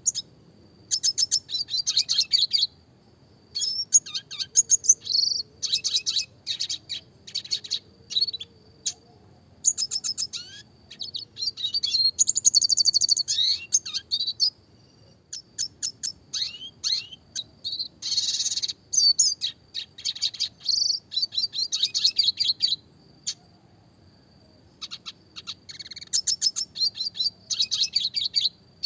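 Red siskin (Spinus cucullatus) singing: bursts of rapid high chirps and fast rolling trills separated by short pauses, with one harsh buzzy note about two-thirds of the way through.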